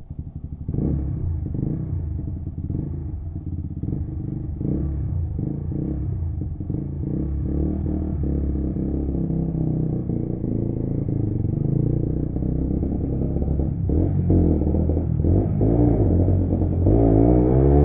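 A Lexmoto Assault 125cc single-cylinder motorcycle engine, heard from the rider, pulling away and getting louder about a second in, then running on under way. Near the end its pitch rises and falls as the throttle is worked.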